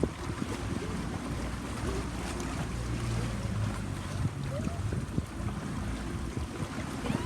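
A boat's engine running steadily under wind buffeting the microphone, with water splashing against the hull.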